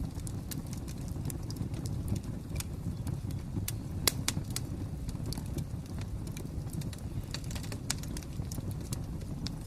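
Fire crackling: irregular sharp pops and snaps, the strongest about four seconds in, over a steady low rumble of the burning fire.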